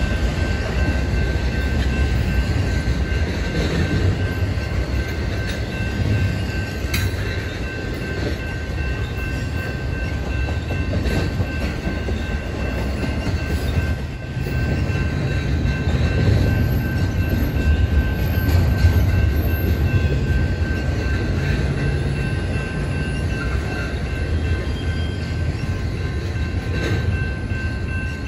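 Double-stack intermodal freight cars rolling past at track side: a steady heavy rumble with wheel-and-rail clatter and a few sharp clicks, over a steady high ringing tone.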